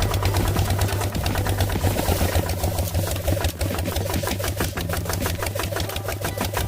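Small motor running steadily, a constant hum with fast, even ticking at about ten a second.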